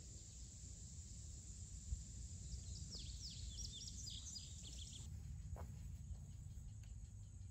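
Birds chirping in a quick run of short falling notes from about two and a half to five seconds in, over low wind rumble and a steady high insect drone that drops abruptly about five seconds in.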